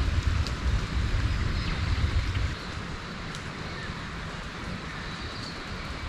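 Wind buffeting the microphone as a low rumble, which drops away about two and a half seconds in, over a steady high outdoor hiss with a few faint chirps.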